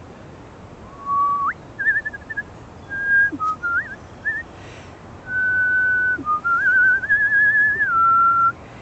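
A person whistling bird-call phrases to draw out cardinals: clear single notes, some held steady, some sliding sharply upward or warbling quickly, in a string of short phrases with a longer held run near the end.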